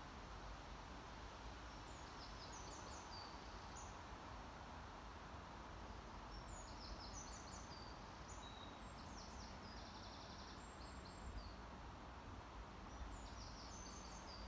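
Faint birdsong: clusters of quick high chirps and trills every few seconds over a steady low hiss.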